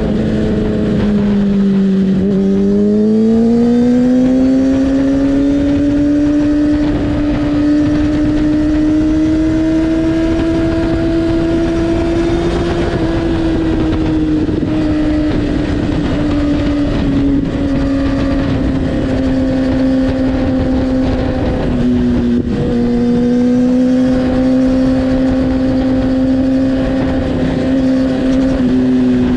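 Kawasaki ZX-6R's inline-four engine running loud through an Akrapovic exhaust with its dB killer removed and the butterfly valve disabled. The note climbs slowly in pitch at the start, then eases back down and holds steady, with a brief dip about two-thirds of the way in.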